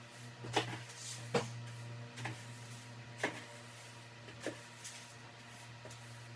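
Broom sweeping a floor: five short brushing strokes, about one a second, over a steady low hum.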